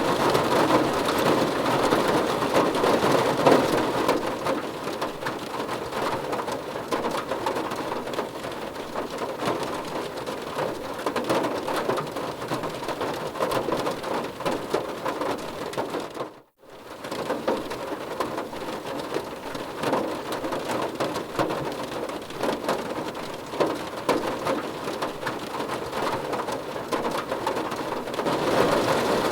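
Steady heavy rain drumming on a car's roof and windows, heard from inside the car, a dense patter of many small drop impacts. It cuts out for a moment about halfway through and comes straight back.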